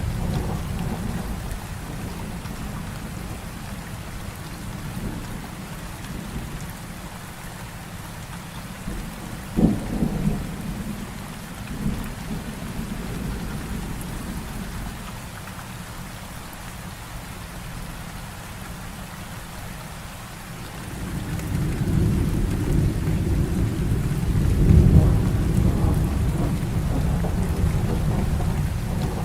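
Heavy rain falling steadily with thunder: a rumble fading early on, a sharp close crack about ten seconds in, then a long deep rumble that builds from about twenty seconds and peaks a few seconds later.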